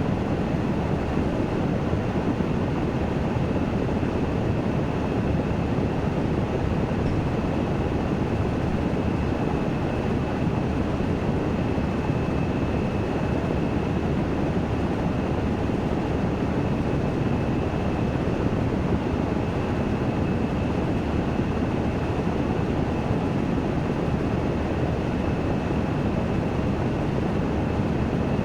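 Washing machine drum in its spin-dry cycle, a steady, unbroken whir with a faint high whine held over it.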